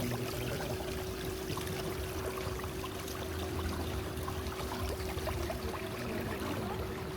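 Water rushing and splashing along the hull of a river tour boat under way, with a steady hum from the boat's motor.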